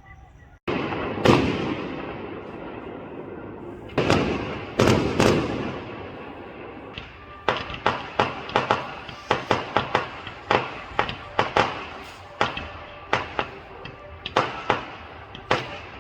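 Fireworks going off. Several heavy booms with long rolling tails come in the first few seconds, then a rapid string of sharp bangs, two or three a second, runs through the second half.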